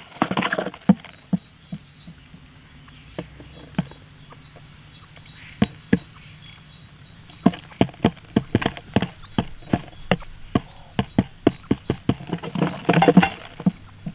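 Irregular sharp taps and clicks, with a short burst of rustling at the start and another near the end.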